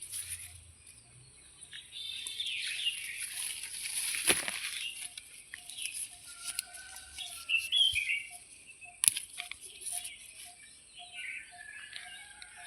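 Leaves and stems rustling and snapping as flowers are picked off a plant, loudest a few seconds in, with birds chirping in short bursts and a steady high hiss behind.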